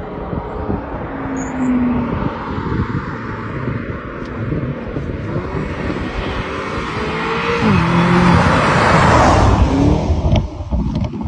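A motor vehicle's engine running, its pitch rising and falling as it speeds up and changes gear, under a rushing road and wind noise. The noise builds to its loudest about nine seconds in and falls away sharply near the end.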